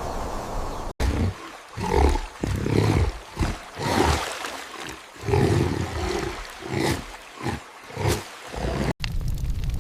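Animal roars and growls in a string of short bursts, roughly one a second, cutting in abruptly about a second in and cutting off about a second before the end.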